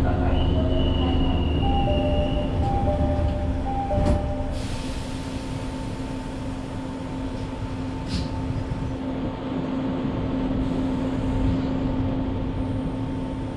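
Izukyu 'Aloha' electric train heard from on board, standing before departure: a steady electric hum, a two-note alternating chime in the first few seconds, then a thud about four seconds in followed by a brief hiss of air.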